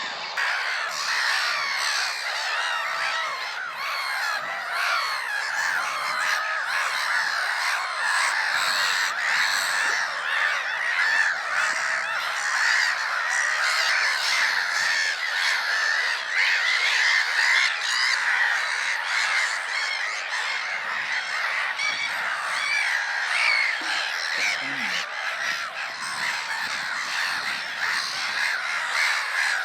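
Dense, unbroken chorus of many black-headed gulls calling together, countless overlapping squawks with no pause.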